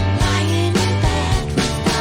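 A rock band playing an instrumental passage of a song, with sustained chords over heavy bass and a steady, driving drum beat of about three to four hits a second.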